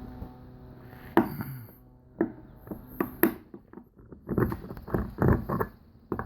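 Tools and a plastic fitting being handled: a few separate sharp knocks, then a quicker run of clattering strikes in the second half.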